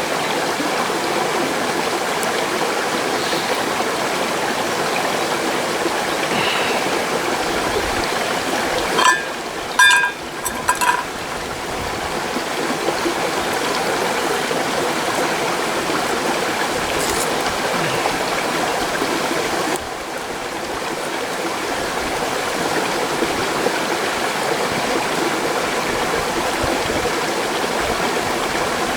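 A mountain stream rushing steadily over rocks. About nine to eleven seconds in, a few short pitched clinks sound over it.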